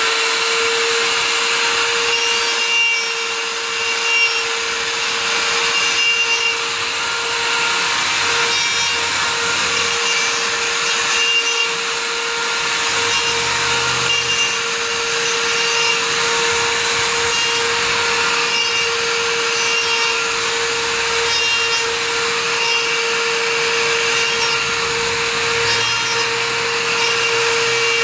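Router at full speed used as a planer, its bit taking a shallow cut across the face of a rough sawn board. A steady high whine runs over a continuous rasping cutting noise that swells and eases slightly as the router is pushed along.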